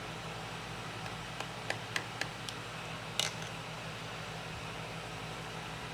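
Light clicks and a short scraping rattle of small metal tools and parts being handled on a workbench, over a steady low electrical hum.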